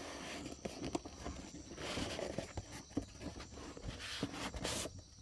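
Irregular rustling, scraping and light knocks of a small A/C dye-injection kit and its parts being handled.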